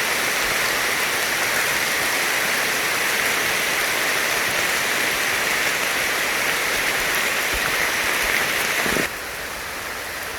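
Steady heavy rain falling, a dense even hiss that drops abruptly to a quieter wash about nine seconds in.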